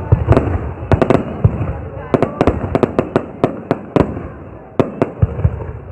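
Fireworks going off: a rapid, irregular series of sharp bangs and cracks, over a steady background of voices.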